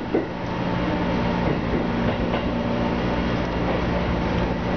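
Seibu Railway electric train running into its terminus, heard from inside the cab: steady running noise with wheels clicking over the rail joints and a steady low hum.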